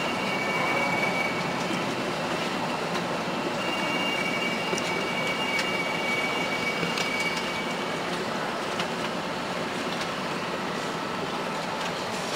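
Tohoku Shinkansen train running at speed, heard from inside the car: a steady rush of running noise with a thin high whine that comes and goes.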